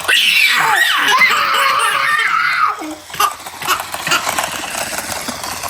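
A young child squealing in a high, wavering pitch for about three seconds, then a few sharp clicks.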